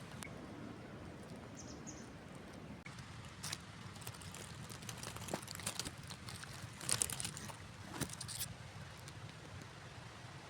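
Outdoor ambience: a steady low rumble with scattered crackling rustles, the loudest cluster about seven seconds in, and a short high chirp about two seconds in.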